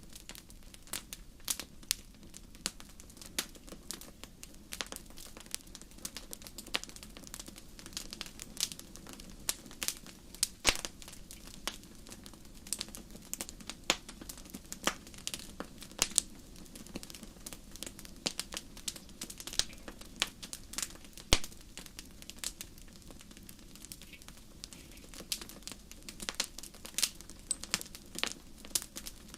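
Wood fire crackling in a fireplace, with irregular sharp pops and snaps over a low steady rumble of the flames.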